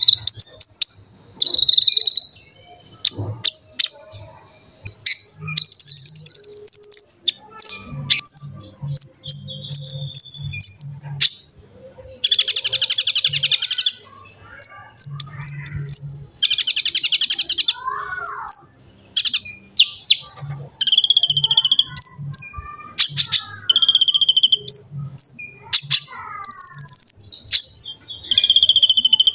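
Konin (kolibri ninja) sunbird singing gacor: a fast run of high, sharp chirps and short whistles, broken by two dense buzzing trills about halfway through.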